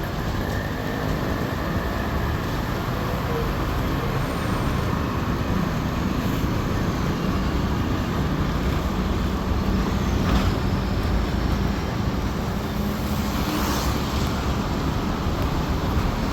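Steady road traffic noise, with vehicles swelling past around ten and fourteen seconds in.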